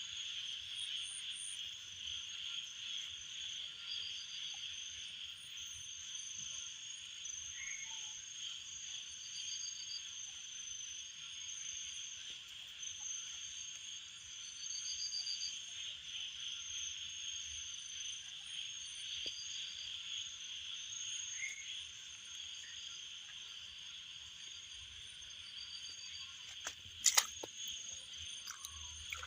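Night chorus of insects and frogs: a steady high insect trill, with pulsed chirping calls repeating over it. A single brief sharp knock sounds near the end.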